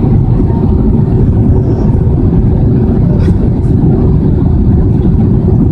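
Steady, loud low roar of cabin noise aboard an Airbus A320, with a faint steady hum running under it.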